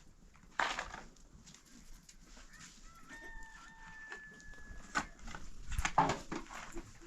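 A rooster crowing once, a faint held call a few seconds in, among a few short noisy calls and knocks from the farmyard.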